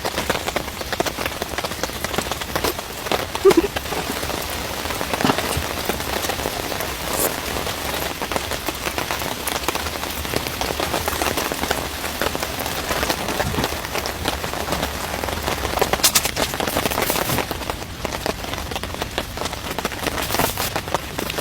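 Heavy rain falling, a steady wash of noise dotted with many separate drop taps and a few louder hits.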